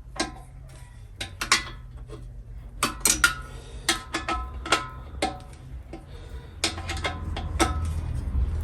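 Metal hand tools clinking together as a spanner is fetched: a dozen or so sharp, irregular clinks, several with a short metallic ring, over a steady low hum.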